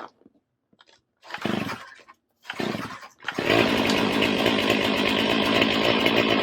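Stihl MS500i fuel-injected two-stroke chainsaw cold-started at 6 °F: two pulls on the starter cord about a second apart. The engine catches just after the second pull, about three seconds in, and then runs steadily. It took three pulls in all to start, where it normally starts in one or two.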